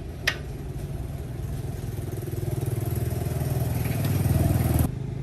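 Diesel engine fitted with a new piston running with fast, even firing pulses, getting louder from about two seconds in, then cutting off abruptly near the end.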